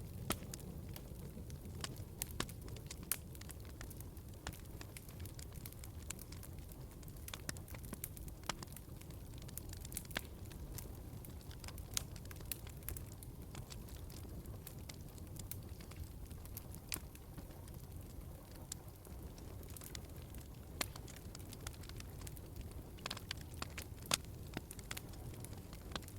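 Wood fire crackling in a fireplace: a steady low rumble of flames with frequent irregular sharp pops and snaps from the burning logs.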